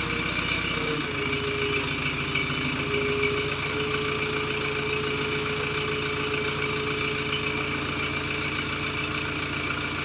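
Hydra crane's diesel engine running steadily. About a second in its note changes and a steady high tone comes in and holds.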